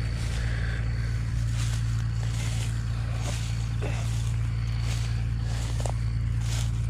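Case IH 2144 combine's diesel engine idling with a steady low hum, faint soft noises now and then over it.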